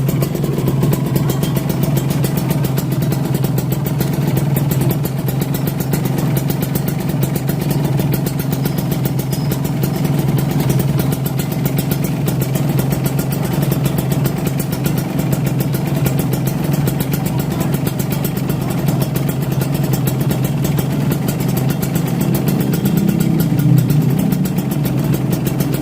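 Kawasaki Ninja RR single-cylinder two-stroke engine running steadily through a racing exhaust, its carburettor set slightly rich. The engine gets briefly louder about 23 seconds in.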